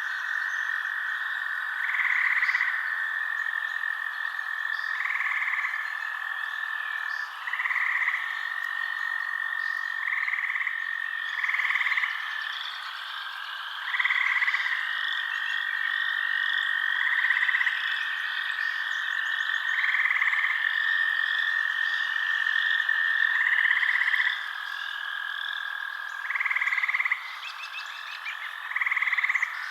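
Night chorus of frogs: a steady high trill with louder croaking calls repeating about every two to three seconds, and faint higher chirps above.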